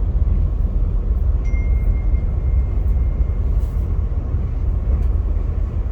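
Via Rail passenger train running, heard from on board: a steady low rumble, with a faint high thin tone for about two seconds near the middle.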